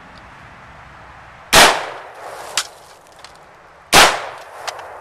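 Two gunshots about two and a half seconds apart, each dying away over a fraction of a second. A short sharp knock follows about a second after each shot.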